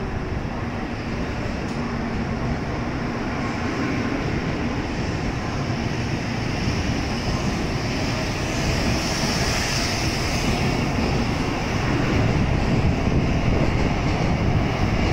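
N700A Shinkansen train pulling out of the platform and accelerating: a steady rushing noise of the train's running gear that grows louder as it picks up speed.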